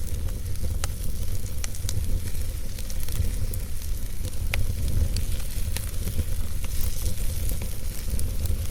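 Wood fire burning in a fireplace: a steady low rumble of the flames, with sharp pops and crackles from the burning wood scattered through it.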